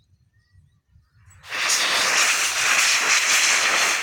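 Zinc-sheet bird scarer over a rice paddy, yanked by its rope and rattling and clanging very noisily, starting suddenly about a second and a half in and keeping on; a metallic racket meant to drive rice-pest birds off the crop.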